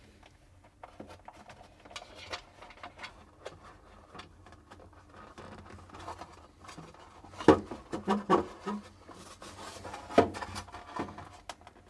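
Plastic refrigerator air-tower parts being handled: light rubbing and scattered small clicks as a thermistor and its wire are fed through the hole in the damper cover, with a few sharper plastic clacks in the second half.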